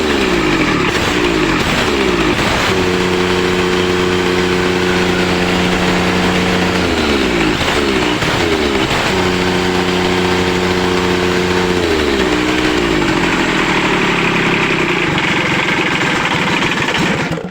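Kubota three-cylinder diesel engine running, its speed dropping several times in falling pitch glides with steady running between. The engine sound falls away sharply near the end.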